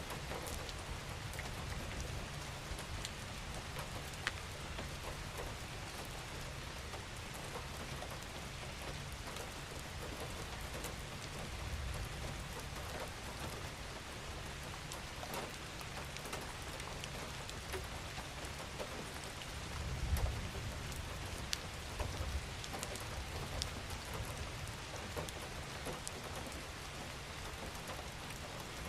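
Steady rain falling: a dense, even hiss with many individual drops ticking on surfaces, over a low rumble that swells briefly about twenty seconds in.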